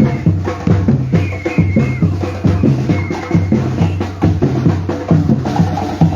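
A batucada percussion group playing a steady, fast rhythm: deep bass drums ringing under quick, sharp strokes of the smaller drums.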